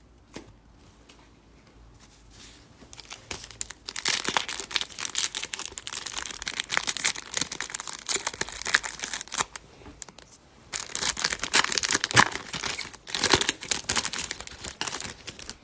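Plastic trading card pack wrapper being torn open and crinkled by hand, in two stretches of dense crackling after a quiet start.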